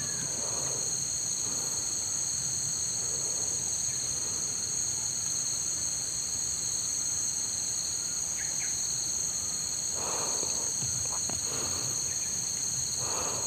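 Steady, shrill chorus of insects, holding several high-pitched tones without a break.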